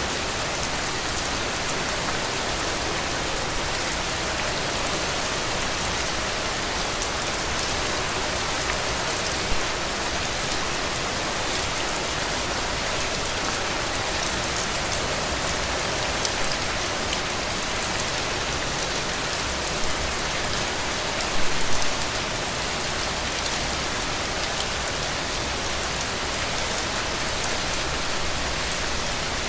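Heavy rain falling steadily on a roof, an even hiss, with a few louder spatters, the loudest a short cluster about two-thirds of the way through.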